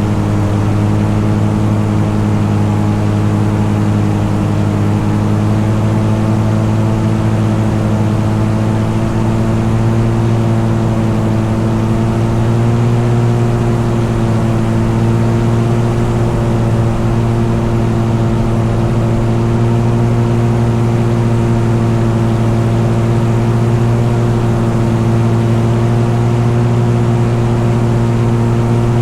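An engine running steadily at constant speed, with a drone that holds one pitch and rises slightly about twelve seconds in.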